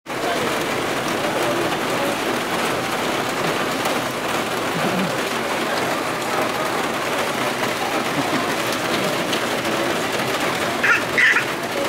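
Steady rain falling on a street, an even hiss. Two brief high-pitched sounds stand out about eleven seconds in.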